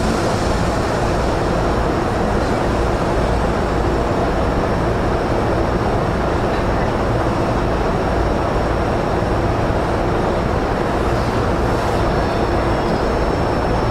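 Steady noise inside a car of a JR East E231-0 series commuter train, even throughout, with a thin high whine that becomes stronger near the end.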